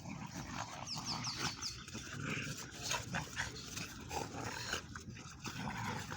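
Pet dogs making short, irregular dog noises amid clicks and knocks, with a quick run of four short high squeaks about a second in.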